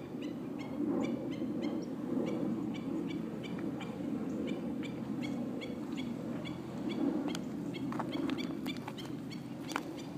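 Bird calling: a fast series of short, repeated chirps, about four a second, becoming sharper and more irregular near the end, over a steady low background rumble.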